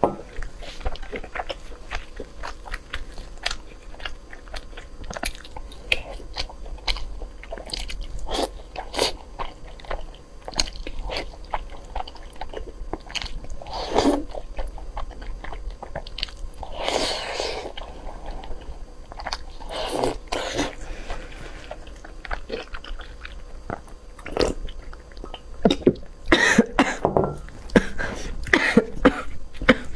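Eating sounds of soft, sticky braised pork belly being bitten and chewed, with many short wet mouth clicks all through and a denser run of them near the end.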